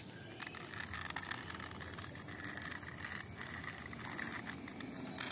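Small plastic pullback toy car rolling along, the faint whirr of its wind-up spring motor and wheels with a thin steady whine.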